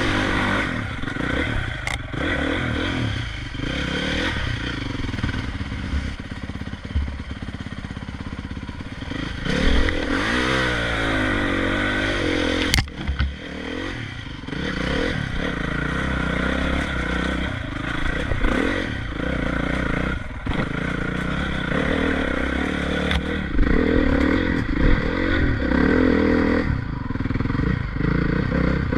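Motocross bike engine revving up and down again and again, with clattering and scraping along with it and a sharp knock about thirteen seconds in.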